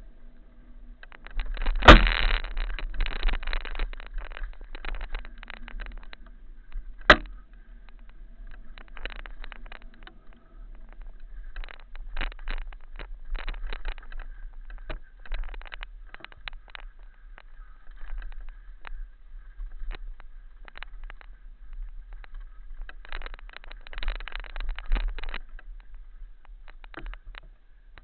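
Rattling and knocking from riding over a rough, rocky trail, in irregular bursts, with a sharp knock about two seconds in and another about seven seconds in; wind rumbles on the microphone throughout.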